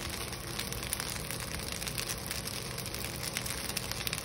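Vegetable vermicelli frying in a hot wok: a low, steady sizzle with fine crackling throughout.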